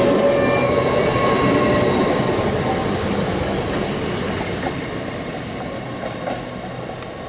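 A train moving along the track, with thin wheel-squeal tones over the rolling noise; the sound slowly fades as the train draws away.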